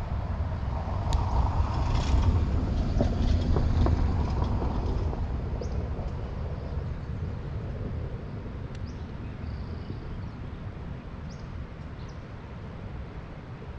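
A low, rumbling noise, loudest in the first few seconds and slowly fading, with a few faint short high chirps.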